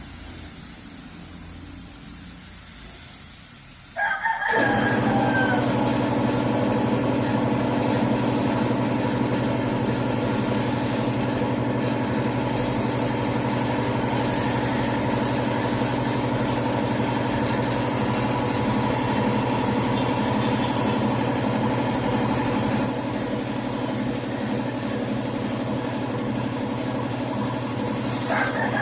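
A motor kicks on suddenly about four seconds in and keeps running with a steady hum. A rooster crows as it starts and again near the end.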